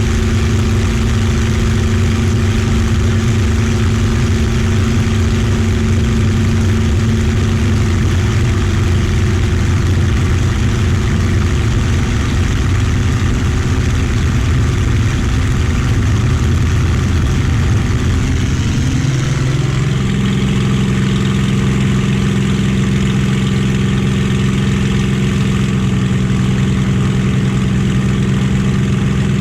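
Merlin V12 piston aero engine of a warbird running steadily, its pitch rising about two-thirds of the way through and holding at the higher engine speed.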